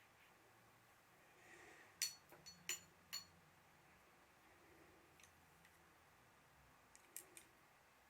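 Near silence broken by a few light, sharp clicks with a brief ringing tone: four close together about two to three seconds in, and three fainter ones about seven seconds in.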